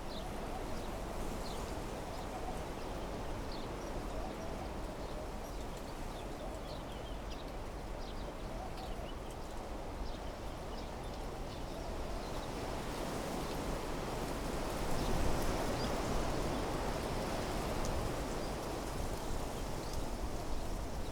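Wind blowing through desert-meadow trees and shrubs, a steady rushing that swells into a stronger gust about two-thirds of the way through. Faint, short, high chirps come and go over it.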